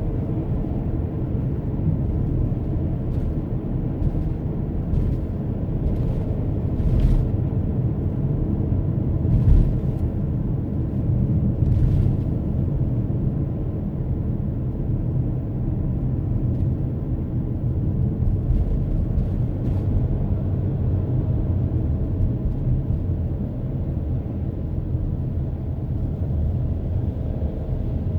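Steady low rumble of a car driving on the road, engine and tyre noise, with a few faint light knocks in the first half.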